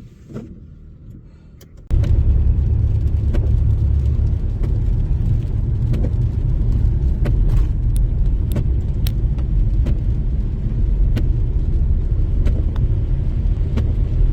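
Car driving: a steady low road rumble that starts suddenly about two seconds in, with scattered light ticks over it.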